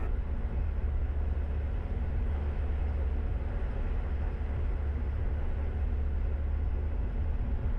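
Flight Design light-sport aircraft's piston engine idling steadily on the ground: an even, low drone heard from inside the cockpit.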